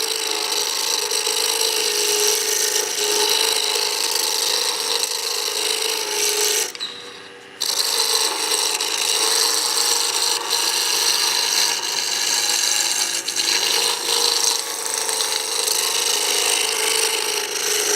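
A chisel cutting into a square pine blank spinning on a wood lathe, a continuous rasping scrape as the stock is roughed round, over the lathe's steady hum. The cutting stops for about a second, about seven seconds in, and then starts again.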